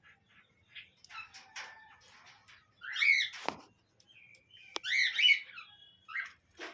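Pineapple conures (a colour form of the green-cheeked conure) chirping and squawking in short, scattered calls. The two loudest bursts come about three and five seconds in, along with a couple of sharp clicks.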